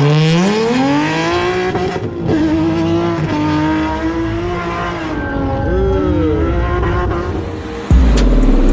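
A high-performance car engine revving hard: its pitch climbs steeply over the first second or so, then holds at high revs with wavering rises and dips. Near the end it cuts abruptly to a loud, deep bass rumble.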